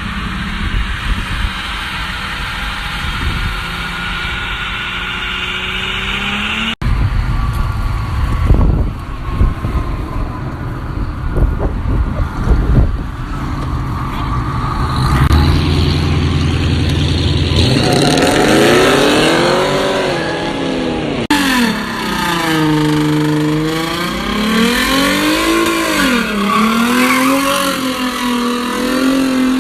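Car engines revving hard as cars do burnouts and donuts, with tires squealing. From about 18 seconds in, the engine pitch swings up and down again and again.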